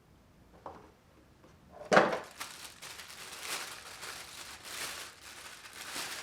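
A single sharp knock about two seconds in, then repeated crinkling and rustling of packaging as a new water pump is unwrapped.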